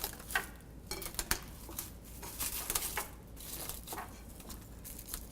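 Faint kitchen handling sounds: scattered light clicks and short rustles, as of a bowl and utensils being moved about.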